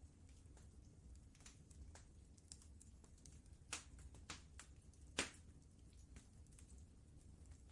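Wood fire crackling in a fireplace: irregular sharp pops and snaps, the loudest about four and five seconds in, over a faint low steady rumble.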